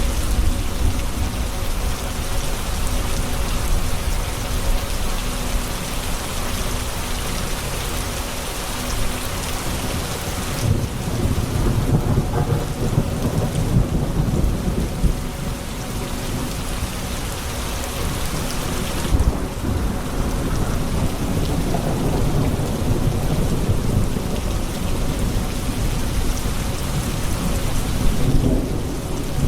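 Thunderstorm: steady heavy rain with thunder rumbling low through the middle stretch and again near the end.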